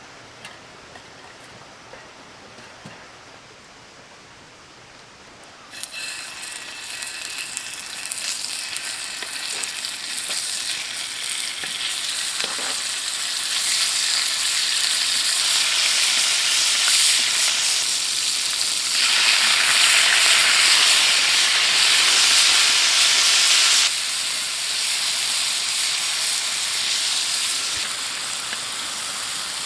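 Food frying in a hot pan. A loud sizzle starts suddenly about six seconds in as the food goes into the pan, builds up, and eases off a little near the end.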